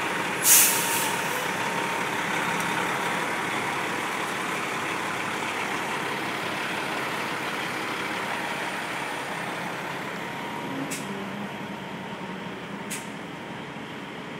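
Heavy truck engine running steadily, with a sharp air-brake hiss about half a second in; the engine sound slowly fades, and two brief clicks come near the end.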